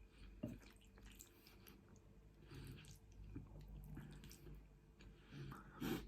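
Faint close-miked chewing and wet mouth sounds of someone eating, with scattered small smacks and clicks, the loudest near the end.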